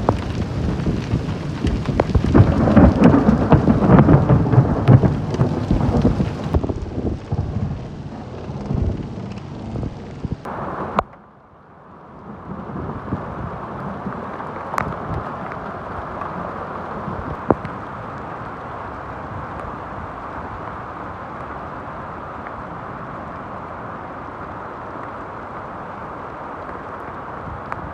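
Rainstorm. For about the first ten seconds there is a loud low rumble with buffeting and crackles. After a sudden break it changes to a steady hiss of falling rain, with a couple of sharp ticks.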